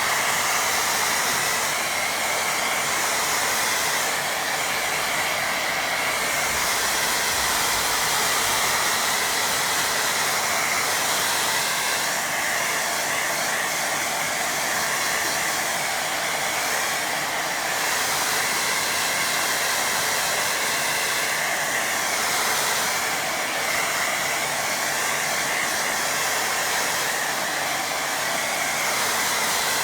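Hair dryer blowing steadily, switched on right at the start to dry a wet watercolour painting. Its high hiss swells and eases every few seconds.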